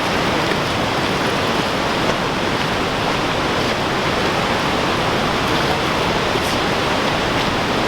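Steady, loud rush of a waterfall and fast-flowing water, an even roar with no let-up.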